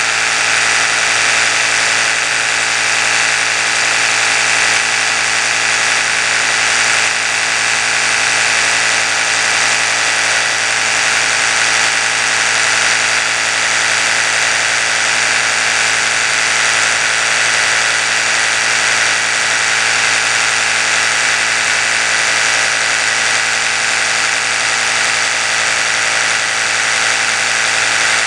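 Oral-B electric toothbrush running continuously, its motor giving a steady, even hum.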